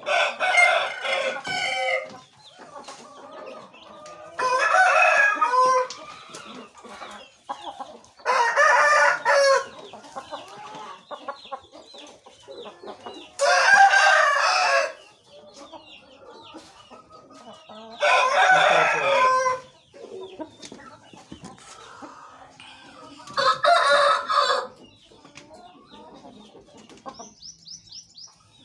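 Shamo game-fowl rooster crowing six times, each crow about one and a half to two seconds long and coming every four to five seconds, with softer clucking between the crows.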